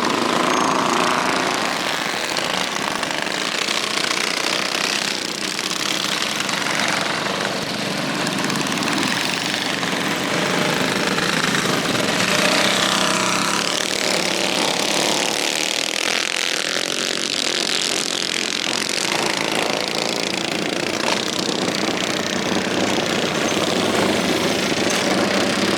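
Small mini bike engines running and revving up and down together.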